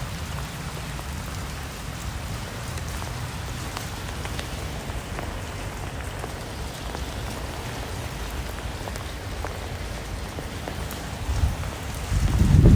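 Steady rain falling, with scattered separate drops tapping on a surface. A louder low rumble comes in near the end.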